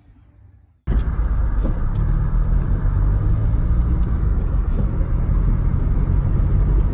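Loud, steady low rumble of a car on the move, cutting in abruptly about a second in.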